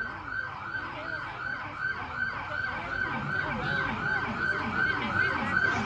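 Several emergency-vehicle sirens yelping together, their rising-and-falling tones overlapping and repeating several times a second, growing gradually louder.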